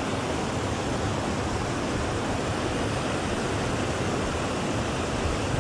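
Small mountain creek rushing over rocks: a steady, even water noise.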